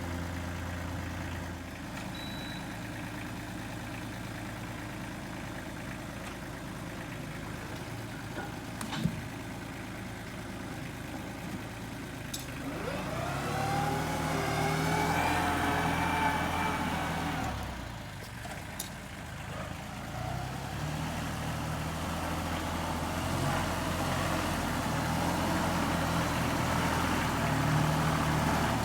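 Tractor engine running steadily, revving up about halfway through, easing off, then working harder again for the last part while it unloads logs. A couple of sharp clicks or knocks stand out over it.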